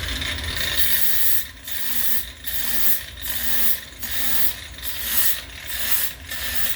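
Makita angle grinder fitted with a sanding disc, running and sanding a wooden axe handle. The noise swells and dips about every three-quarters of a second as the disc is pressed on and eased off the wood.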